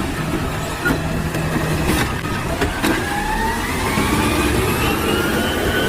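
Motor vehicle engine running, then revving up with its pitch rising steadily over the last few seconds, with a few short clicks.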